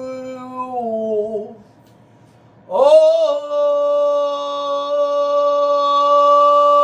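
Stone flute (iwabue) playing long, low held notes. The first note bends downward and fades about a second and a half in. After a short pause, a new note starts with a breathy rush, slides up and is held steady.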